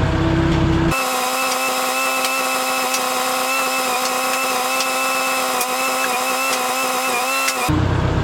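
Case 310 bulldozer's engine running: a low steady rumble, which about a second in gives way abruptly to a steady, even-pitched engine whine with no low end. The whine wavers slightly in pitch near the end, then cuts back abruptly to the low rumble.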